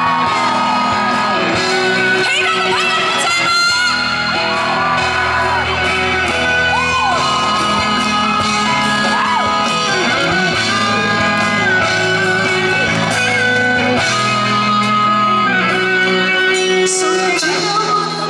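Live pop band playing an instrumental break between verses of the song, with guitar prominent over held chords.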